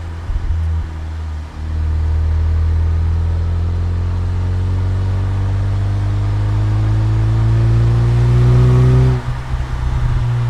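2007 Saturn Sky Redline's turbocharged 2.0-litre four-cylinder pulling hard under acceleration, its note climbing slowly and steadily for about seven seconds. Near the end the pull cuts off abruptly, with a brief choppy drop in sound before the engine picks up again, as at a lift-off or gear change.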